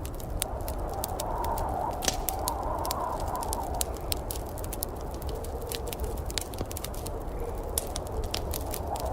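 Wood fire in a fireplace crackling, with frequent sharp irregular pops over a steady low rumble.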